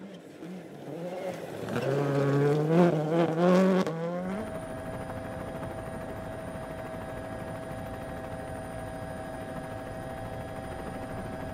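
Rally car engine accelerating, its pitch climbing and stepping through gear changes. About four seconds in it cuts off abruptly to a steady, even hum with a faint constant whine.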